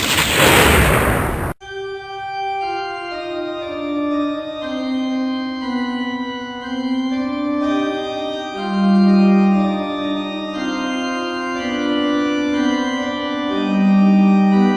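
Organ music with slowly moving held notes. For about the first second and a half a loud rushing burst of noise plays over it, then cuts off abruptly.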